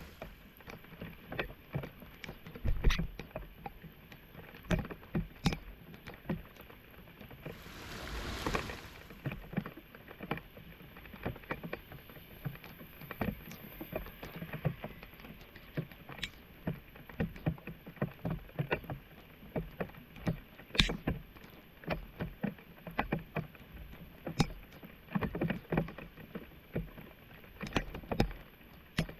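Irregular splashing and knocking in shallow floodwater, as debris is worked loose from a clogged street drain, with a brief rush of water about eight seconds in.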